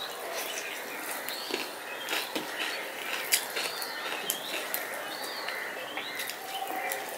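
Wet chewing and lip-smacking clicks of a person eating rice by hand, with small birds chirping in the background.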